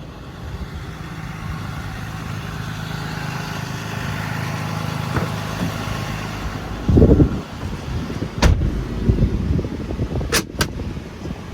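An engine running steadily with a low hum, then a loud thump about seven seconds in, followed by several sharp knocks.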